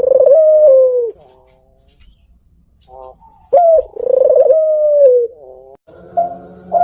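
Puter pelung ringed turtle dove (Barbary dove) cooing: two long coo phrases, each a short rising note followed by a drawn-out coo that drops at its end, with a quiet pause between them. A third coo begins near the end.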